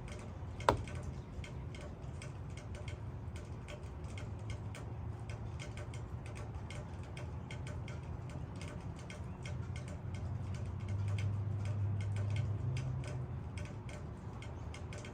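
Rain dripping onto leaves: an irregular stream of separate ticking drops, with one sharp, louder click about a second in, over a low steady rumble that swells near the end.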